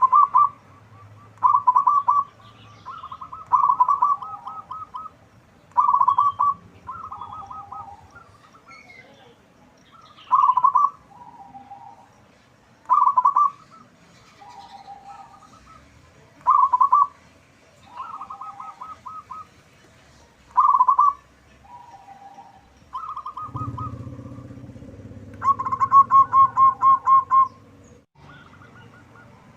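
Zebra dove (perkutut) cooing: short phrases of rapid staccato notes, repeated every two to three seconds. Near the end a longer trilled phrase comes, and a low hum joins underneath.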